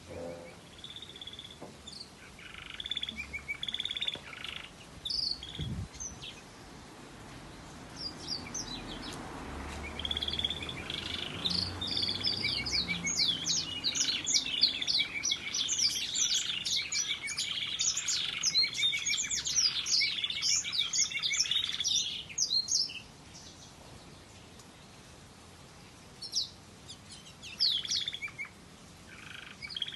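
Variegated red factor canary singing. Short phrases come in the first few seconds, then a long run of rapid trills and warbles from about ten seconds in to about twenty-three seconds, then a few short phrases near the end. The owner wonders whether it is waterslager-style song.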